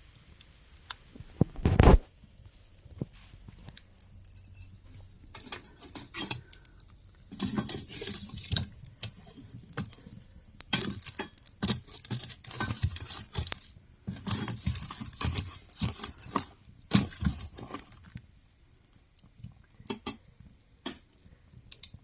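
Wood fire in a fireplace crackling and popping in irregular clusters of sharp clicks, with one loud knock about two seconds in.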